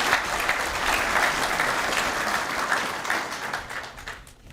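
An audience applauding, dense clapping that dies away in the last second.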